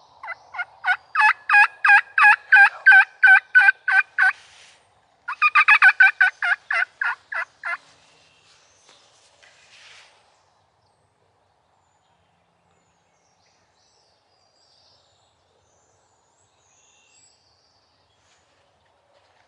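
A turkey call sounded by the hunter to draw in birds: two loud runs of yelps at about four notes a second. The first run lasts about four seconds; after a short pause the second lasts about two and a half.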